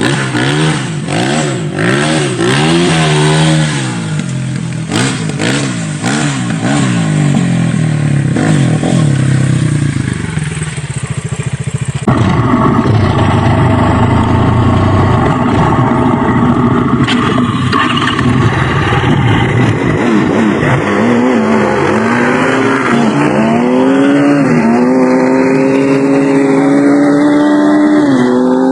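Dirt bike engine revving up and down over rough ground, with knocks and rattles in the first few seconds. About twelve seconds in the sound changes abruptly. Later the engine pitch climbs in a series of steps, dropping back between them as through gear changes.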